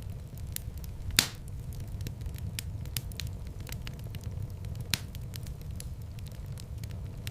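Wood fire burning in a fireplace: a steady low rumble of flames with scattered small crackles. Two louder pops come about a second in and again about five seconds in, the first the loudest.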